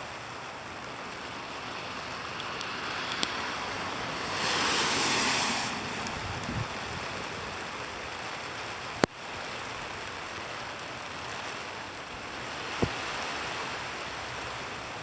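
Steady rain with some graupel and sleet mixed in, falling with wind as a continuous hiss that swells into a louder rush for about a second, starting about four seconds in. A few sharp taps stand out, the sharpest about nine seconds in.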